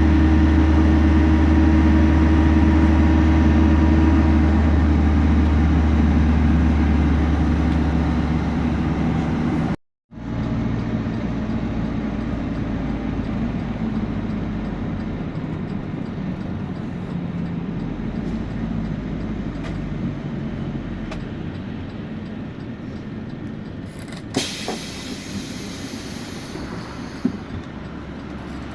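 Temsa Prestij SX midibus running, heard from inside: a steady engine drone for about ten seconds, then, after a sudden break, a quieter rolling sound of engine and drivetrain with a couple of sharp clicks near the end.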